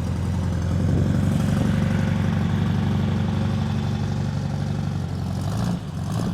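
Car engine running steadily close by, growing louder about a second in and dipping briefly near the end.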